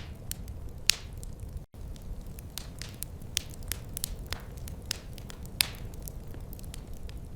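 Wood fire crackling in a fireplace: irregular sharp pops and snaps, a few louder ones, over a steady low rumble of flames. The sound cuts out completely for an instant a little under two seconds in.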